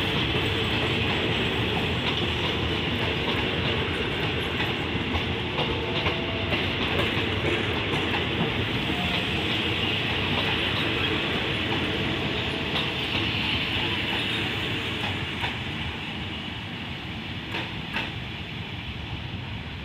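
Passenger train coaches rolling along the track, their wheels clicking over the rail joints. The sound fades over the last few seconds as the tail coach moves away.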